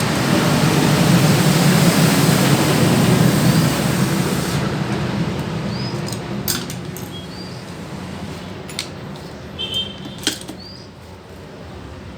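A freshly repaired Suzuki Gixxer 150's single-cylinder engine running. Its sound steadily fades over the second half. A few sharp clicks and short high chirps come through as it dies down.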